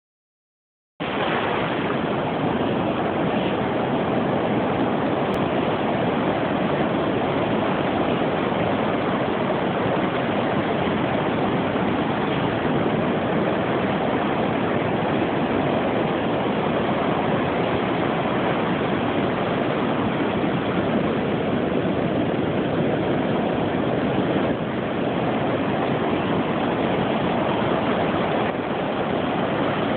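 Heavy hurricane surf, a steady loud rush of breaking waves, starting about a second in.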